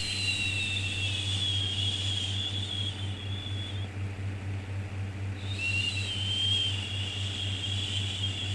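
A long drawn-out "shhh" shushing sound given twice, each lasting about four seconds with a short gap between. Under it runs a steady bed of white noise and a low hum.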